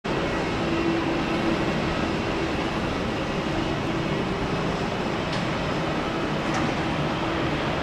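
Jet aircraft engines running with a steady rumble and hiss, with a faint low hum held underneath.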